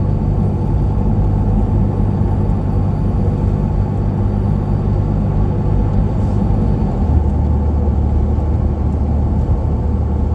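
Steady road and engine drone of a truck driving along a highway, heard from inside the cab. About seven seconds in, the low hum shifts to a new steady pitch as the engine note changes.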